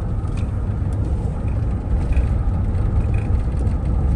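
Chevrolet Silverado pickup driving along: a steady low rumble of its V8 engine and road noise.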